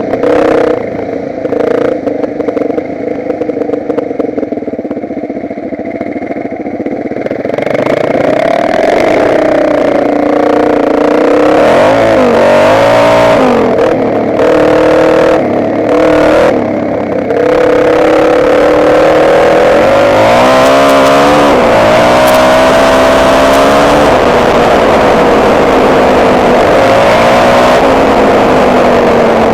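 Motocross bike's engine heard from on the bike while riding, running lower and quieter at first, then louder with the throttle opened. Its pitch rises and falls in a few quick throttle changes partway through, then holds fairly steady and sinks slightly near the end.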